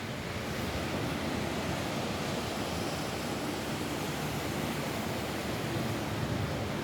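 Rain falling steadily on a roof: an even, unbroken hiss.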